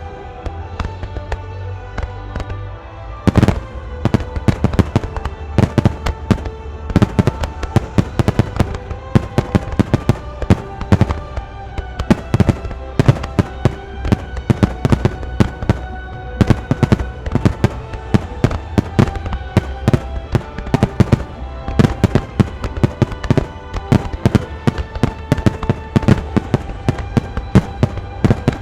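Aerial fireworks bursting in rapid, overlapping bangs over music playing along with the display. The bursts are sparse for the first few seconds, then come thick and fast for the rest.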